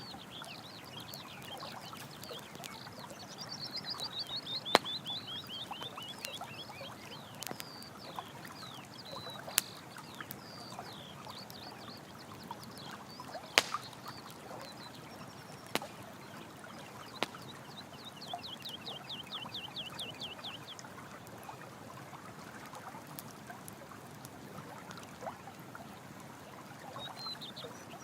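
Running water flowing steadily under a campfire that crackles, with about five sharp pops. Twice a small animal gives a rapid high trill of many quick repeated notes, the first about three seconds in and the second past the middle.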